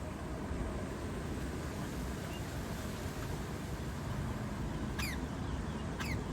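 Steady low outdoor background rumble, with two quick high bird chirps falling in pitch, a second apart, near the end.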